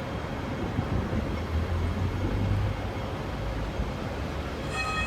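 Outdoor vehicle and traffic noise, with a low rumble that swells about one and a half seconds in and fades a little over a second later. Near the end comes a short, steady, high-pitched tone.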